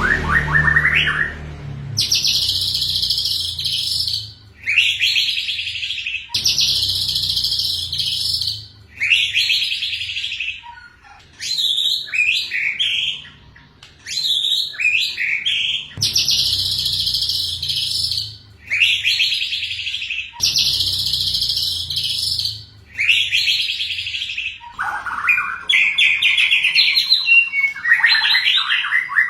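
White-rumped shama (murai batu) singing a dense, pouring run of high, rapid trilled phrases. Each phrase lasts about two seconds, with short pauses between. In the last few seconds the phrases drop lower and turn more varied and broken.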